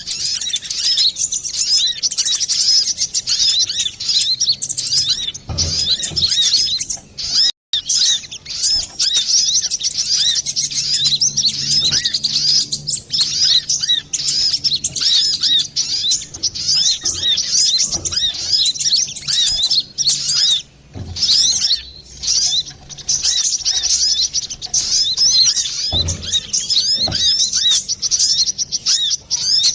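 Brown-throated sunbird (kolibri kelapa) singing a fast, busy stream of high chirps and trills without pause, a male in full song of the kind used as a lure call.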